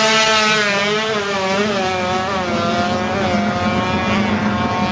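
Drag-racing motorcycle engine running hard at high revs, its pitch climbing and dipping several times as it pulls away.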